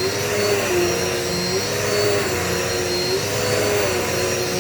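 Dirt Devil Multi-Surface vacuum cleaner running steadily, its motor note dipping slightly and recovering every second or so over a constant rush of airflow, with a faint high whine.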